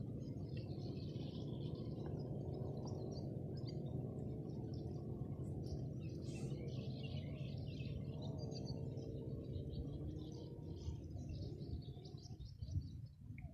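Birds chirping and calling in many short bursts over a steady low hum that fades away near the end.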